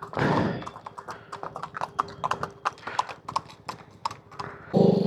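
Horse hooves clip-clopping: a run of sharp, uneven hoof strikes. There is a brief rush of noise just after the start, and a motor vehicle engine comes in loudly near the end.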